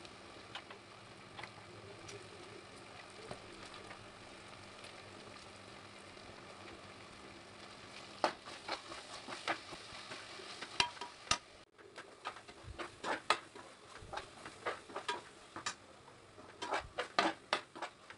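Onion, tomato and spice masala sizzling in oil in a pressure cooker. From about eight seconds in, a perforated metal ladle stirs it, with irregular sharp clinks and scrapes against the pot.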